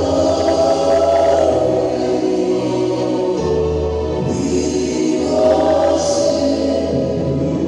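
Choir singing gospel music over sustained bass and keyboard accompaniment.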